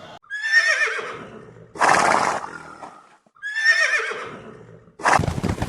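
Horse whinnying twice, each a high, quavering neigh that falls in pitch, with a short noisy burst between the two calls. Near the end a dense clatter starts abruptly.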